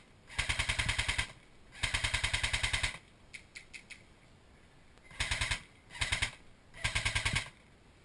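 Airsoft electric rifle firing on full auto: five bursts of rapid, evenly spaced shots, two longer ones of about a second each near the start and three shorter ones in the second half.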